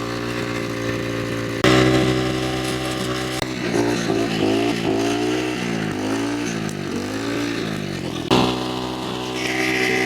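Lifan 2.5 horsepower four-stroke small engine running on two-stroke fuel. It runs steadily, steps up louder about two seconds in, then its revs rise and fall several times through the middle before settling again near the end.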